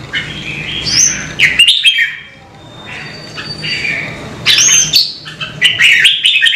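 Red-whiskered bulbul song: short bursts of quick warbled and whistled notes, with loud phrases about a second in and again in the second half.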